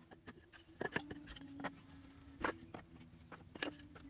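Irregular clicks and knocks at uneven spacing, the loudest about a second in and about halfway through, over a faint low hum that comes and goes.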